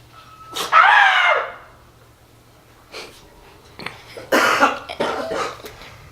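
A person coughing, with two loud coughs, about a second in and again about four and a half seconds in.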